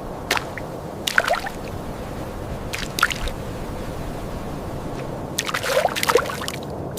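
Wet squelching and splashing of mud or shallow water in four short clusters, the longest near the end, over a steady background hiss.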